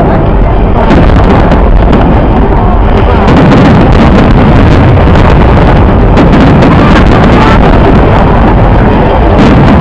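Fireworks show going off in a dense, continuous barrage: a loud, steady low rumble with many rapid cracks and pops over it.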